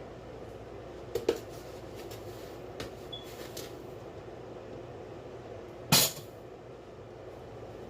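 Kitchenware knocking while a cup of sugar is measured into each of two pots: a few light taps in the first few seconds, then one sharp clack about six seconds in.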